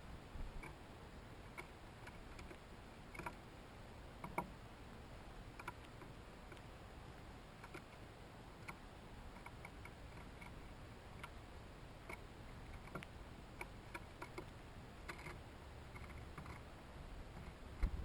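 Birds and chipmunks at hanging feeders making irregular sharp ticks and taps, about one a second, over faint background hiss; the loudest tap is about four seconds in, another near the end.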